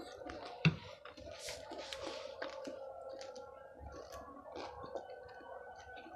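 Close-up chewing of batagor, fried fish dumplings in peanut sauce, with the mouth closed: many small wet mouth clicks and squishes. There is one sharp clink about a second in, as the metal spoon is set down on the plate.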